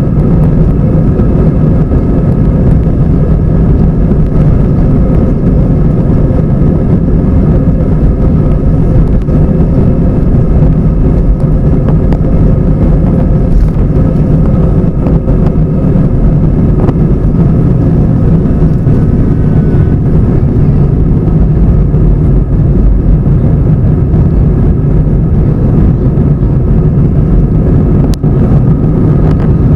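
Airbus A320 engine drone and airflow noise heard inside the cabin, loud and steady with a constant low hum, as the airliner climbs after takeoff.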